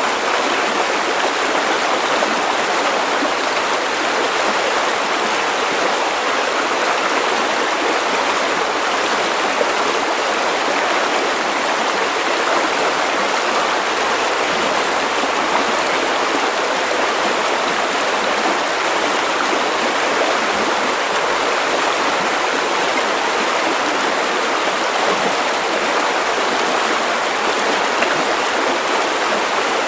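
River water running steadily over stones, an even rushing and babbling flow.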